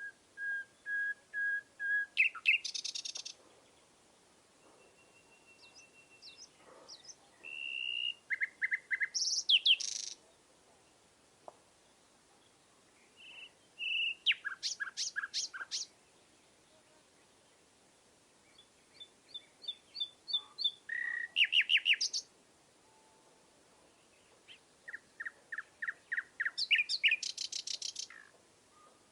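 A songbird singing, about five short phrases with pauses between them. Each phrase is a run of repeated short whistled notes that speeds into a fast, high trill.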